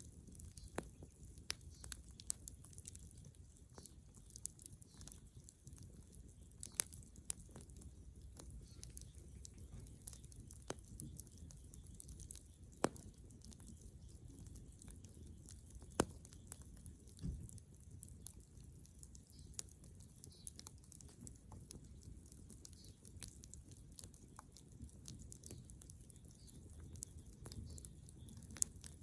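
Bonfire of dead wood and branches crackling, with irregular sharp pops, the loudest about 13 and 16 seconds in, over a low steady rumble.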